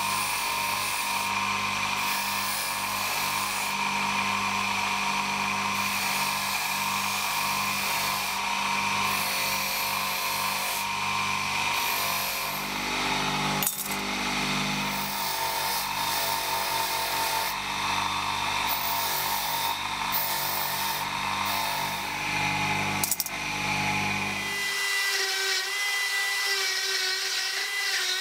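Electric power tool running steadily with a grinding, rubbing sound of work on a hard material, with a couple of sharp clicks. Near the end the low motor hum stops and a higher-pitched whine carries on.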